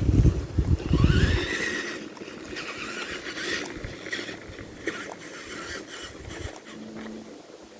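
Tamiya TXT-2 RC monster truck driving over brush: a heavy rumble at first, then its motor whining up in pitch, followed by scattered crackles and snaps of twigs under the tires.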